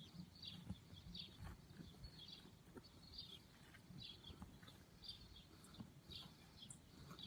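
Near silence, with faint, short, high-pitched chirps from a small animal repeating about every half second and a few soft ticks.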